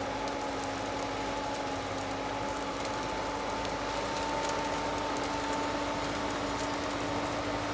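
Tractor engine running at a steady speed, a constant hum with a slight rise in pitch about four seconds in.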